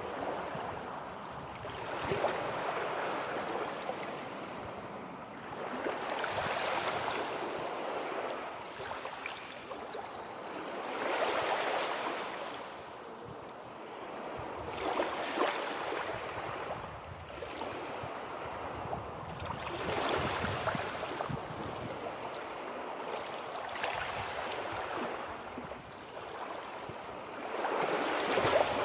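Sea waves breaking and washing on the shore, the surf swelling and ebbing about every four to five seconds.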